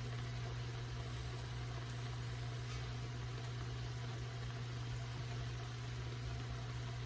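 Oyster mushrooms frying in hot oil: a steady sizzling hiss over a constant low hum.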